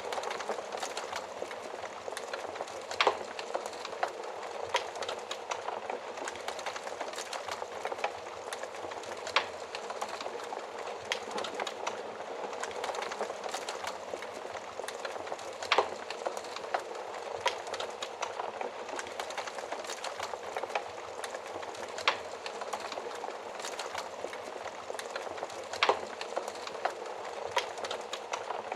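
Wood fire burning in a stove, a steady hiss of flames with constant small crackles and a few louder sharp pops every few seconds.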